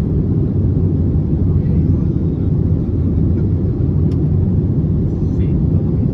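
Steady low rumble of an Airbus A321neo in flight, heard inside the passenger cabin: engine and airflow noise, with a faint click about four seconds in.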